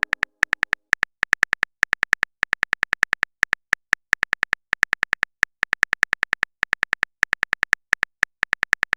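Rapid, slightly irregular run of short, bright clicks, about five a second, each with a small ringing tone: a text-typing sound effect.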